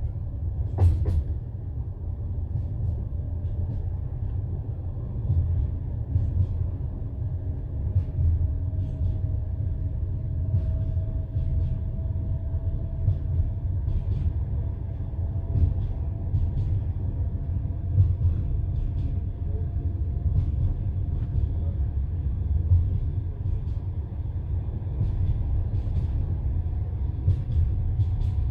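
Passenger train carriage running at speed, heard from inside: a steady low rumble with the wheels knocking over rail joints every second or so.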